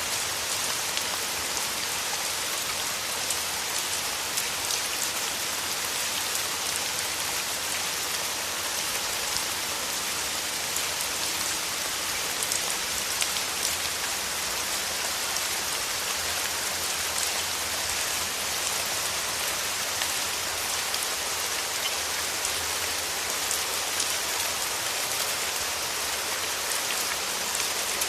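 Steady rain falling on a surface: an even hiss flecked with many small drop ticks, constant in level.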